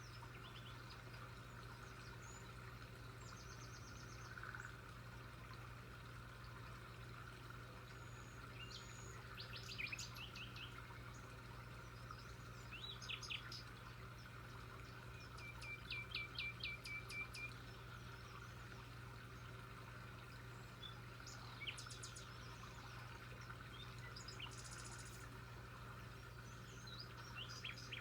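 Small birds chirping and trilling on and off, including a quick run of repeated notes about halfway through, faint over a steady low hum.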